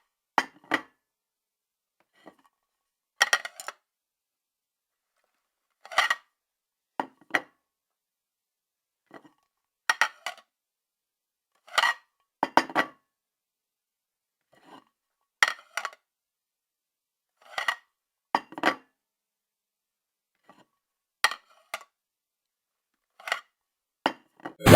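Dishes and cutlery clinking: short, sharp clinks and clatters, often two close together, every second or two with silence in between.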